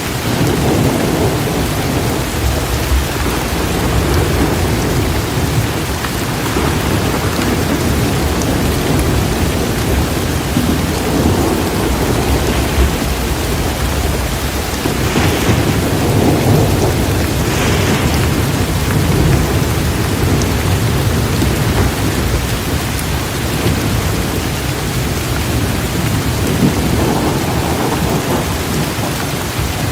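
Heavy rain pouring steadily with rolling thunder rumbling throughout, the rumble swelling and easing in long waves.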